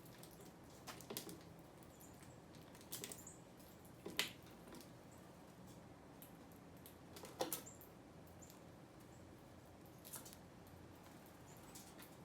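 Small birds at a feeder: scattered sharp taps and clicks of pecking and landing, two louder ones about 4 and 7.5 seconds in, with a few faint brief high chirps over a quiet hiss.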